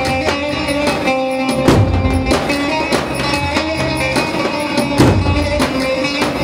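Instrumental Turkish wedding dance music with a steady drum beat under a plucked-string melody.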